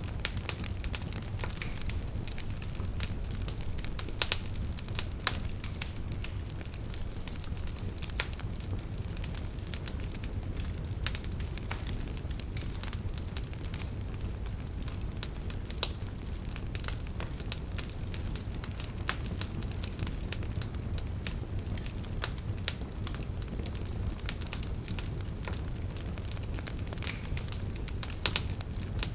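Wood fire burning in a fireplace: a steady low rumble of flames with frequent sharp crackles and pops from the burning logs, a few of them louder than the rest.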